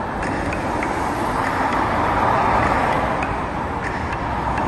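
Steady roar of road traffic.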